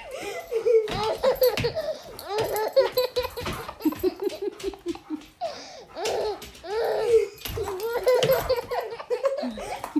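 A person laughing hard in high-pitched fits, with quick runs of ha-ha-ha repeated several times.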